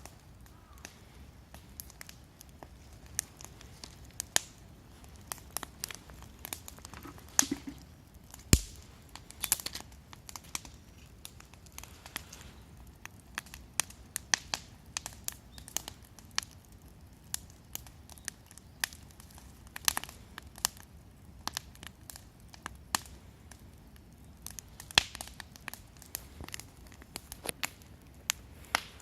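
Wood fire crackling, with irregular sharp pops and snaps over a low hiss; the loudest pop comes about eight and a half seconds in.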